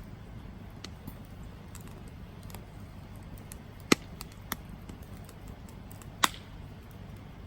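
Campfire crackling over a steady low rumble, with scattered small snaps and two sharp, loud pops, one about halfway through and one near the end.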